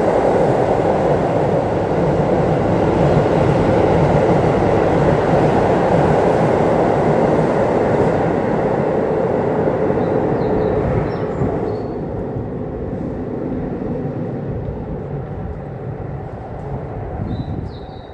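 Keisei Oshiage Line electric train running along the track, a loud steady rumble of wheels on rail that falls away after about eleven seconds and fades.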